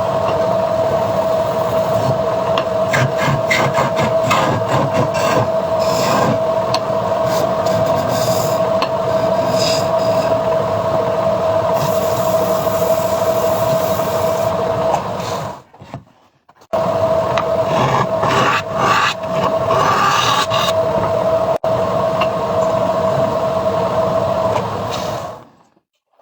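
Wood lathe spinning with a steady hum while a turning tool scrapes and cuts the rotating wood in irregular strokes. The sound breaks off briefly about two-thirds through, resumes, and stops just before the end.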